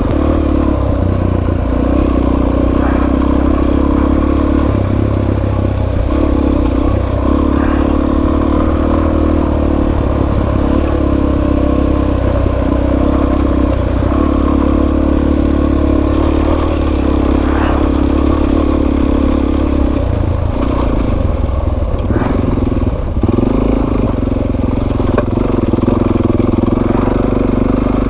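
Suzuki DR-Z400S single-cylinder four-stroke engine running while riding a dirt trail, the engine note dipping briefly every few seconds as the throttle is eased and reopened.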